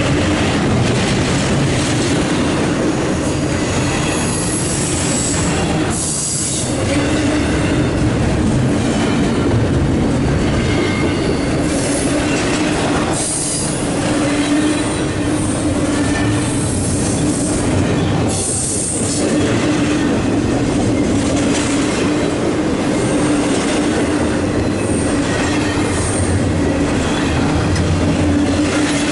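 A CSX intermodal train's double-stack container well cars rolling past: a steady rumble of steel wheels on rail. Brief high-pitched wheel squeals come several times.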